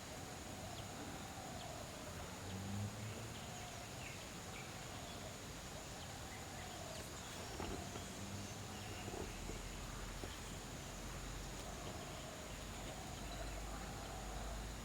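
Outdoor rural ambience: a steady high-pitched insect drone runs throughout, and a low rumble comes in about nine seconds in.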